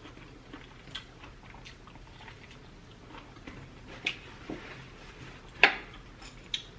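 Close-up chewing of a mouthful of steak, with a few sharp wet mouth smacks and clicks, the loudest near the end.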